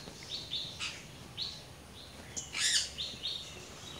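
Small birds chirping: a string of short, high chirps, with a louder, rougher call about two and a half seconds in.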